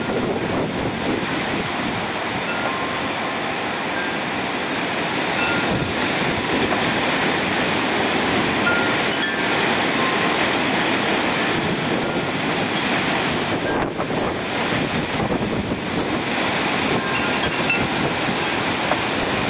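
Strong storm wind blowing steadily as an even rushing noise, with wind buffeting the microphone: Hurricane Irene's winds picking up. A few faint short high tones sound here and there.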